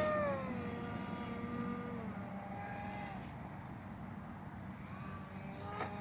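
Mako radio-controlled flying boat's motor and propeller droning in flight, the pitch falling and the sound fading about half a second in; the hum carries on more faintly, with a short click near the end.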